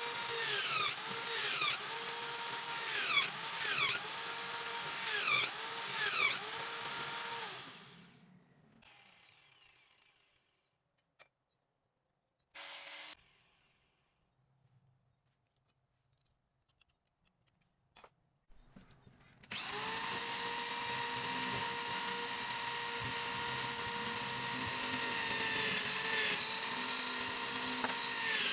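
A small electric power tool, drill-like, running. For the first third its pitch dips briefly about once a second as it bites into the work, then it spins down. After a pause with a short burst and a few clicks it starts again and runs steadily to the end.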